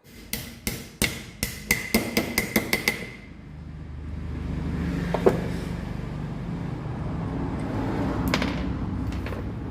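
A quick series of sharp metallic taps, like a small hammer on steel parts, about a dozen in the first three seconds, some of them ringing. A steady low hum follows, broken by a couple of single knocks.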